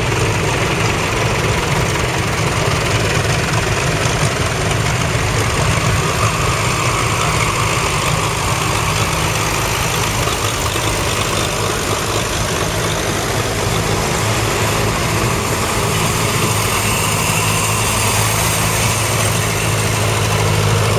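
Vintage tractor engines running steadily at low revs, a continuous low hum.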